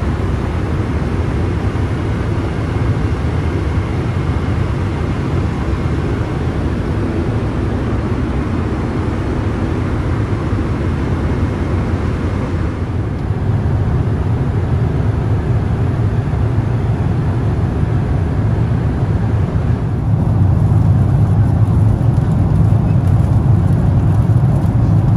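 Steady cabin noise of a Boeing 777-300ER in cruise: an even rumble and rush of airflow and engine noise. The hiss turns duller about halfway through, and the low rumble grows louder near the end.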